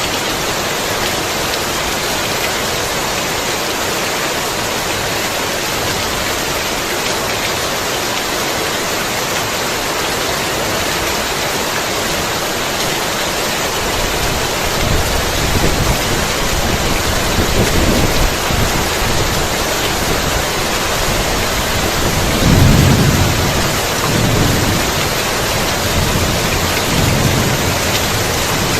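Heavy rain falling steadily with thunder. About halfway through, low rolls of thunder begin, swelling several times, with the loudest roll about three quarters of the way in.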